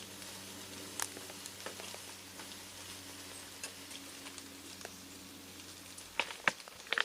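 Raindrops dripping and pattering on a surface in scattered sharp taps, with a burst of louder taps near the end, over a faint steady low hum.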